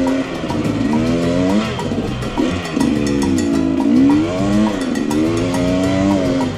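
Husqvarna TE250 enduro motorcycle engine revving up and down as the throttle is worked, its pitch rising and falling every second or so, with a steady beat of background music underneath.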